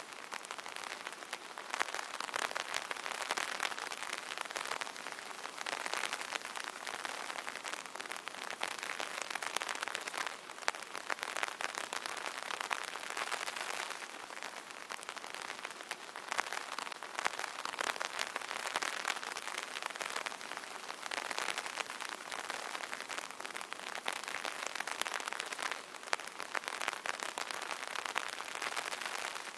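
Light rain pattering on an open umbrella canopy: a dense, steady patter of many small drop hits.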